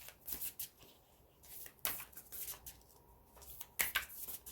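Large tarot cards being shuffled by hand: a scattering of short, papery slaps and rustles at irregular intervals.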